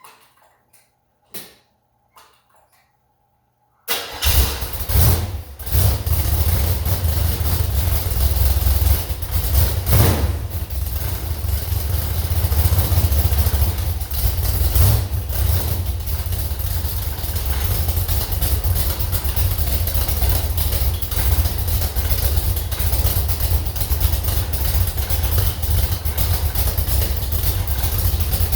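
Slover 305 engine on a test stand, started from cold: a few light clicks, then it catches suddenly about four seconds in, falters briefly, and settles into steady running.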